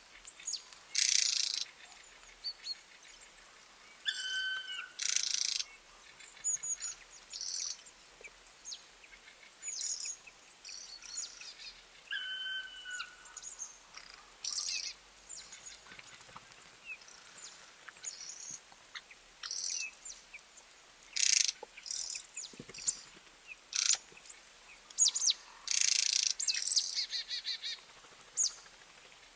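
Several birds chirping and calling in short, scattered high calls, with a clear whistled note about four seconds in and again about twelve seconds in.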